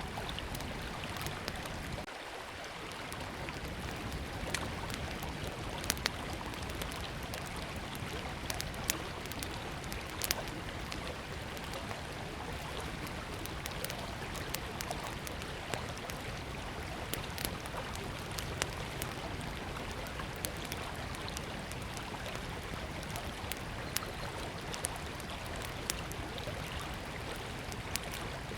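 Steady rush of a flowing river, with a small wood fire crackling in scattered sharp pops over it.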